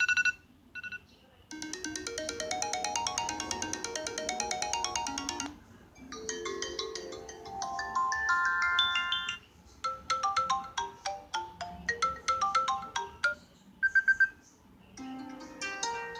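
iPhone SE ringtones and alert tones played one after another, each a few seconds of bright electronic melody with short gaps between. A fast repeating run of notes comes first, then a different tune, then a plinking pattern, a quick burst of beeps, and the start of another tone near the end.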